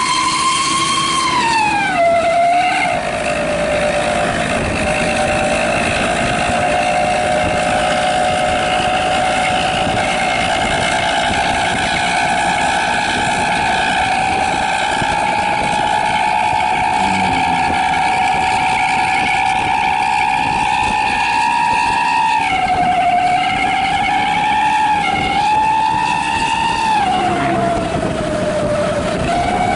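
The 'srigala' (wolf) exhaust on an ALS 246 bus howling: a loud, sustained whistling howl with several overtones. Its pitch falls about two seconds in, then climbs slowly and steadily for about twenty seconds, and dips and wavers a few times near the end.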